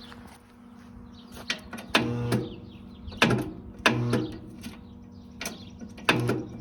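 Lawn tractor starter being keyed in repeated short bursts: each a click followed by a brief steady hum as the starter strains without turning the 15.5 hp overhead-valve engine over. The engine seems stuck after sitting for years, which the owner suspects may be from critters nesting in it.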